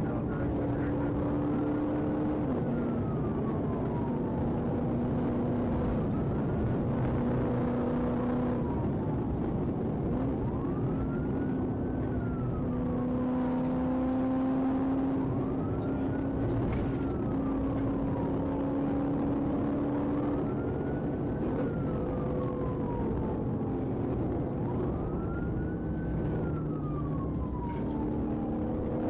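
Police siren on its wail setting, rising quickly and falling slowly about every four to five seconds, over a steady hum and rushing vehicle noise.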